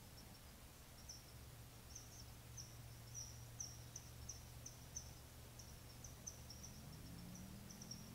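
Faint, high-pitched bird chirps repeated two or three times a second, over a low steady hum that rises a little in pitch near the end.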